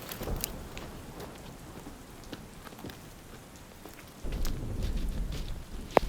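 Steady rain with many individual drops pattering on nearby surfaces. About four seconds in, a low rumble starts abruptly and lasts nearly two seconds, and a single sharp knock comes just before the end.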